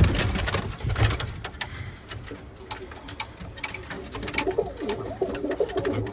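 Domestic pigeons cooing, a wavering low call that comes in about four seconds in and keeps on, after a few sharp knocks and rustles at the start.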